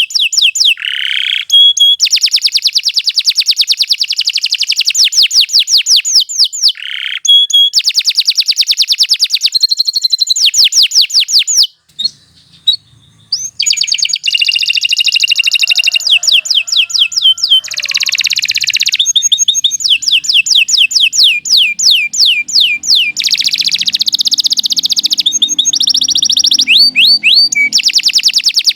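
Domestic canary singing a long, loud song of rapid trills and quick sweeping whistled notes, breaking off for about a second and a half near the middle before carrying on.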